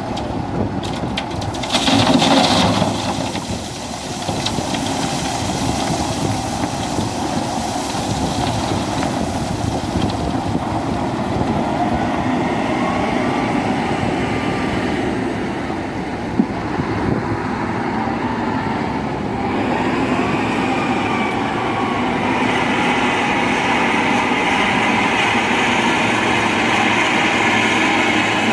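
Scania 164L 580 truck's V8 diesel engine running, with a short loud burst of noise about two seconds in and the engine sound growing louder over the last several seconds.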